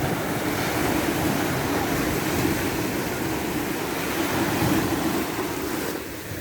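Ocean surf: waves breaking and washing in, a steady rush of water that eases a little near the end.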